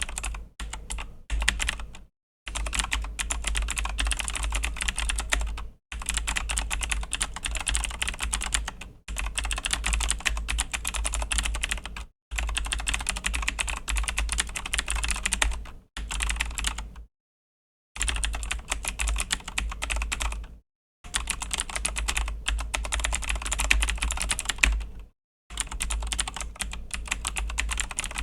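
Fast typing on a Razer BlackWidow V3 mechanical keyboard with clicky Razer Green switches: dense streams of key clicks in runs of a few seconds, broken by short pauses.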